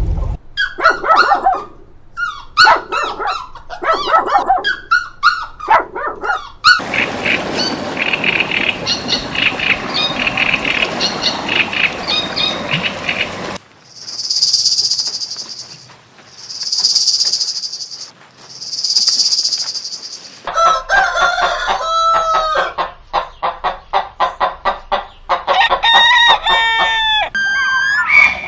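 A run of different animal calls, one after another: loud pitched calls, then a dense chattering flock, then three long hissing swells about two seconds apart, then rapid chirping bird calls with quick up-and-down glides.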